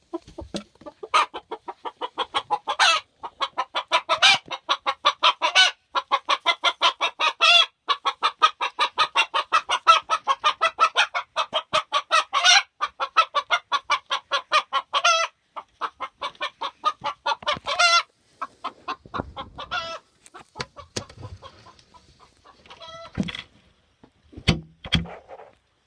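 Chicken giving an agitated, angry cackle: long runs of rapid clucks, about six a second, each run ending in a louder drawn-out squawk. The clucking thins out in the last several seconds, with two sharp knocks near the end.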